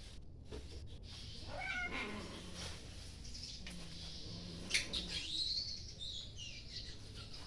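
A domestic cat meows about two seconds in. A high, arching whistled note follows about five seconds in.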